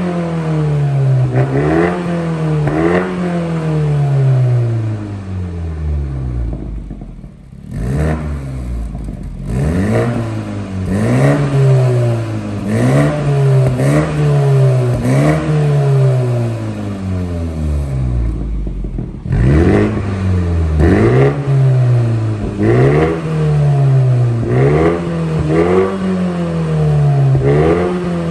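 BMW G30 530i's 2.0-litre turbocharged four-cylinder revved over and over through an aftermarket variable valved exhaust, in quick blips about once a second. Twice, about a quarter of the way in and again about two-thirds through, the revs sink lower for a moment before the blipping resumes.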